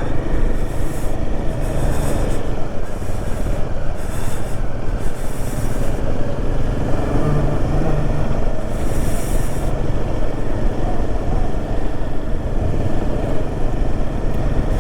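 Royal Enfield Himalayan 450 single-cylinder motorcycle under way on the road, its engine running with a steady, loud rumble and road noise.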